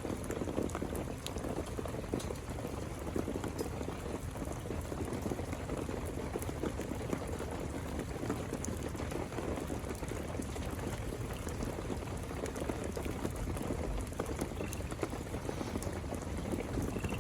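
Heavy rain falling steadily: a dense, even patter of drops with runoff water running underneath.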